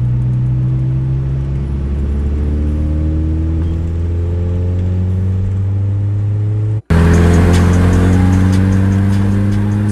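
Saab 9-3 Viggen's turbocharged 2.3-litre four-cylinder heard from inside the cabin, accelerating under boost with a steadily rising engine note over a low drone. The sound cuts off for an instant about seven seconds in and resumes, rising again.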